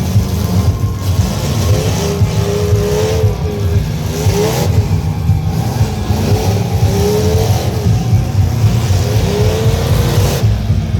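Truck engines running loudly and revving, the pitch rising and falling again and again over a heavy, steady rumble.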